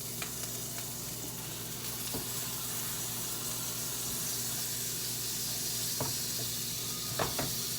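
A tortilla frying in butter in a pan, sizzling steadily, with a few light clicks of utensils near the end.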